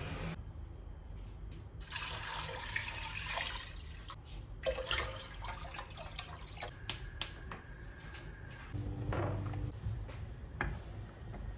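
Water running and splashing in short spells, with clinks and knocks of things being handled and two sharp clicks about seven seconds in.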